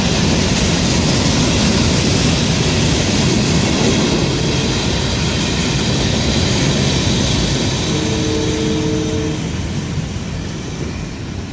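Florida East Coast Railway freight train rolling past close by: a steady, loud rumble and rattle of wheels on the rails, easing slightly near the end.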